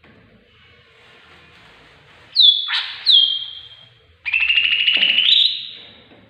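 Tengkek buto (stork-billed kingfisher) calls, as used in green leafbird training recordings. Two loud whistles each drop sharply and then hold. Then comes a longer, rapidly pulsing call that rises in pitch near its end.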